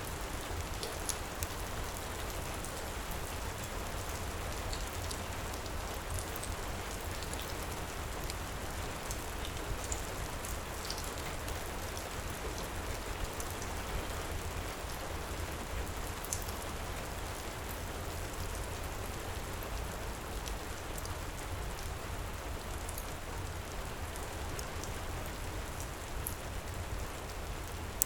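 Heavy rain falling in a steady hiss, with scattered small crackles of a wood fire in a fireplace.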